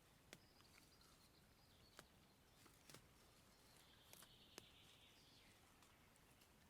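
Near silence: faint outdoor ambience with a few soft, sharp clicks spread through it.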